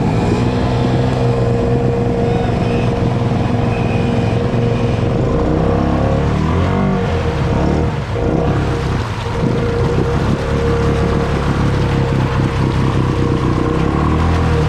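ATV engine running hard under throttle while the machine pushes through deep mud and water. Its pitch dips and recovers a couple of times around the middle.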